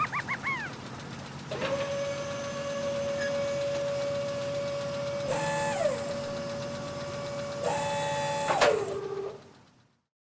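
Small electric motors of a toy excavator whining steadily, with a second motor joining briefly twice as the arm or bucket moves, then winding down and stopping.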